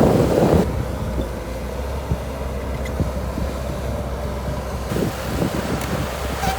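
Shantui DH17C2 bulldozer's diesel engine running steadily with a low hum and rumble. Wind buffets the microphone in the first half second.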